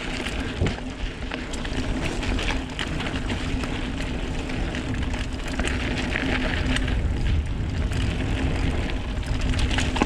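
Mountain bike riding down a rough dirt trail: continuous tyre and trail noise with frequent sharp rattles and knocks from the bike over bumps.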